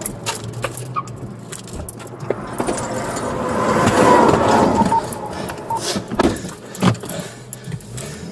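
Police car moving: engine and road noise swelling to a peak about four seconds in, with rattling and several sharp knocks, the loudest two near the end.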